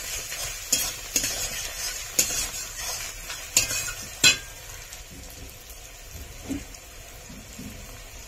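Chopped onion, garlic and tomato sizzling as they fry in hot oil, while a spatula stirs them and knocks against the pan several times. After about four and a half seconds only a quieter, steady sizzle remains.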